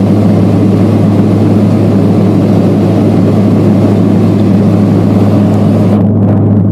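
Steady, loud vehicle engine drone with a constant low hum.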